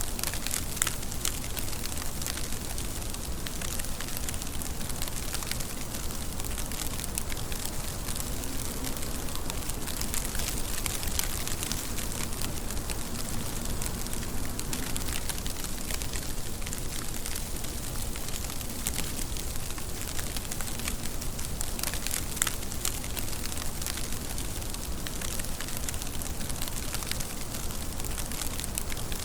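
Steady rain: a constant hiss with a dense patter of drops.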